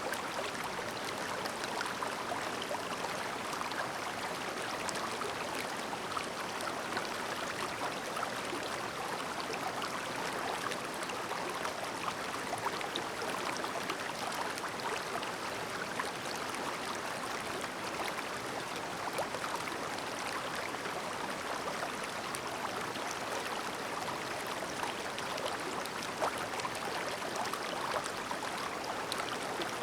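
Clear shallow river babbling steadily over stones, with a constant splashing, gurgling rush flecked with small droplet ticks.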